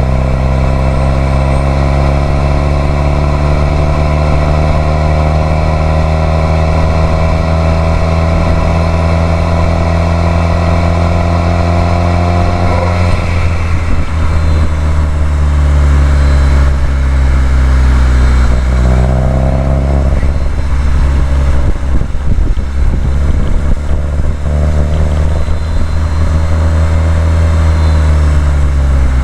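Subaru WRX STI's turbocharged flat-four engine pulling steadily under acceleration, its pitch slowly rising for about thirteen seconds. Then the note turns rougher and uneven, with a short rise in revs, and the revs fall away near the end.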